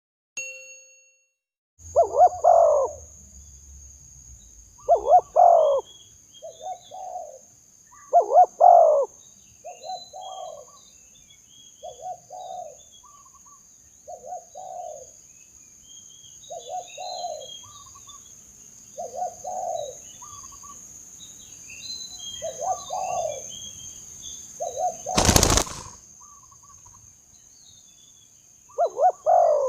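Spotted dove cooing, short low coo phrases repeated every one and a half to two seconds, with faint chirps of small birds and a steady high-pitched whine behind. About 25 seconds in, a brief loud rush of noise cuts across.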